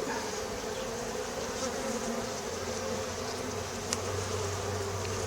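Honeybee colony buzzing steadily around an opened hive as its frames are inspected. A lower hum joins about halfway through, and there is one faint click near the end.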